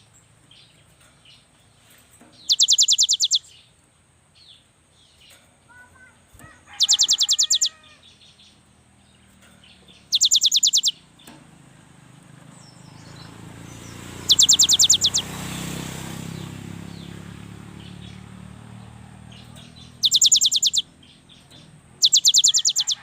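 Gelatik batu (cinereous tit) singing: six short, loud, rapid trills of quickly repeated high notes, each under a second long and a few seconds apart, with softer chirps between them. A low rumble swells and fades in the middle.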